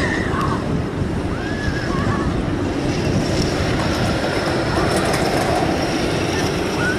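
Roller coaster train running on its track: a steady heavy rumble, with a few short high squeals that rise and fall.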